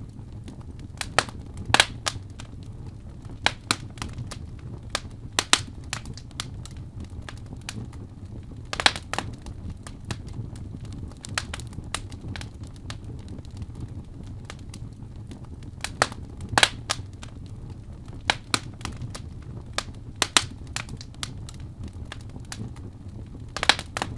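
Wood fire in a fireplace crackling: irregular sharp pops and snaps, a few louder ones standing out, over a steady low rumble.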